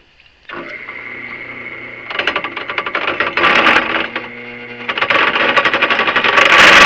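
An electric drill starts about half a second in and runs with a steady whine, then the oiled bit bites into the metal workpiece with loud, rapid chattering that comes in surges and is loudest near the end.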